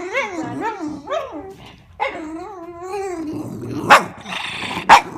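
A dog growling in wavering, pitched runs, with two sharp barks about four and five seconds in.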